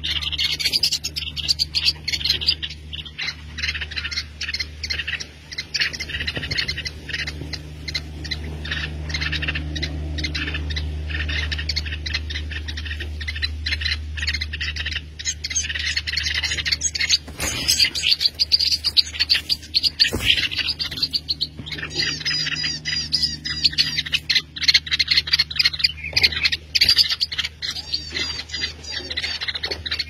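Birds chirping in a dense, rapid stream of short high calls that runs on without a break and grows busier about halfway through, over a steady low hum.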